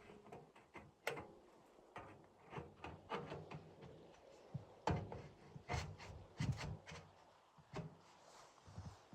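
Irregular soft knocks, thuds and rubbing, a dozen or so at uneven spacing, the strongest about five, six and six and a half seconds in.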